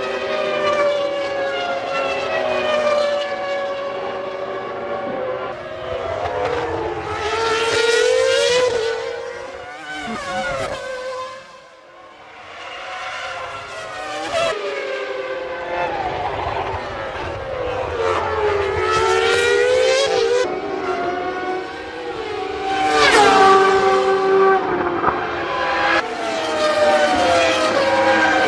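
Formula One cars' engines screaming past at high revs, one after another, each one's pitch dropping as it goes by, with a brief lull about twelve seconds in.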